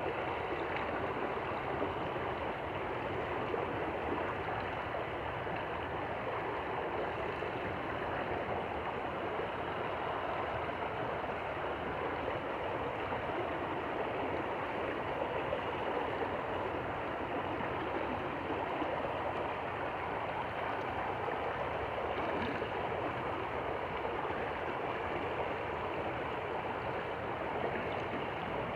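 Stream water flowing and babbling in a steady, unbroken rush.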